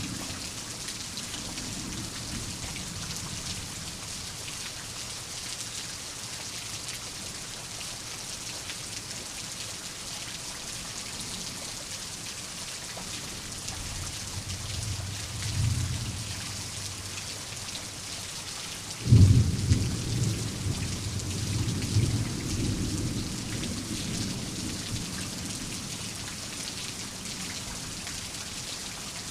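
Steady heavy rain with thunder: a low rumble swells about halfway through, then a sudden loud thunderclap a few seconds later rolls on in low rumbles.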